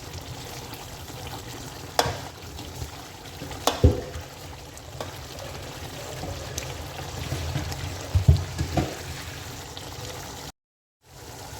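Chicken sauce bubbling and simmering in a cooking pot, with a few sharp knocks, once about two seconds in, again shortly after, and a quick cluster near the end. The sound breaks off abruptly near the end.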